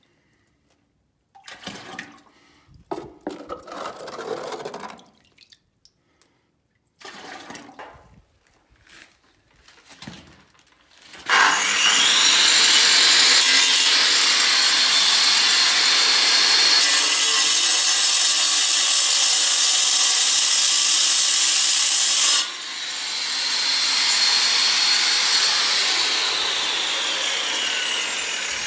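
Handheld power tool spinning up with a rising whine about eleven seconds in and cutting steadily, then easing off about two-thirds of the way through with its whine falling near the end. Before it starts, only short, scattered handling noises.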